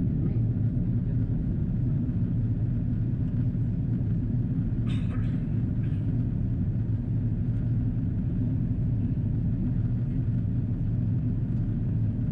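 Steady low cabin rumble of an Airbus A330-343 in descent: airflow over the fuselage and the Rolls-Royce Trent 700 engines, heard from a window seat. A couple of brief faint sounds come about five and six seconds in.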